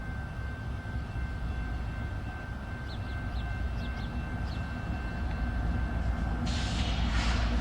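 Railroad cars rolling past with a steady low rumble and a thin, steady high ringing over it. A short, loud burst of hiss comes near the end.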